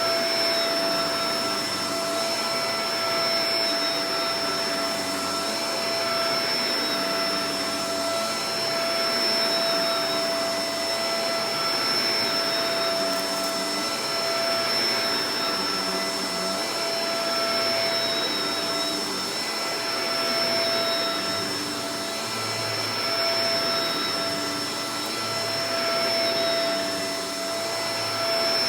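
Shark Professional Powered Lift-Away DLX upright vacuum (NV586) running continuously: a steady motor whine over airflow rush, with the level swelling and easing gently every two to three seconds.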